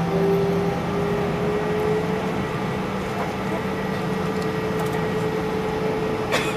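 Airliner engines running with a steady drone, their whine rising slightly over the first couple of seconds and then holding. A short sharp click comes near the end.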